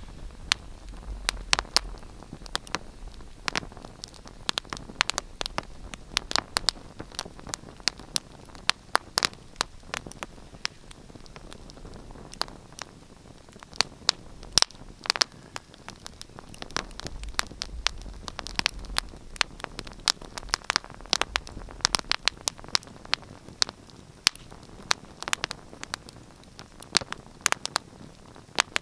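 Wood fire crackling: irregular sharp pops and snaps, several a second, over a steady low hiss, with a soft low rumble now and then.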